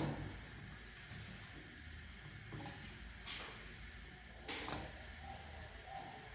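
A few scattered soft knocks and clatters, about four, over a low steady hum.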